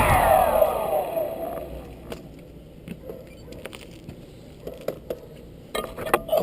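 DJI F450 quadcopter's four motors and propellers winding down, their whine falling steadily in pitch and fading over about a second and a half. A few light clicks and knocks follow.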